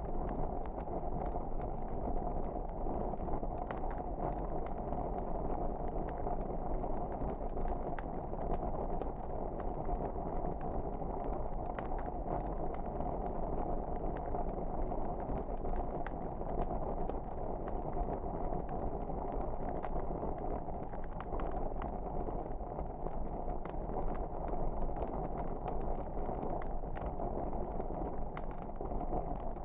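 Wood fire burning in a fireplace: a steady low rush dotted with frequent small crackles and pops.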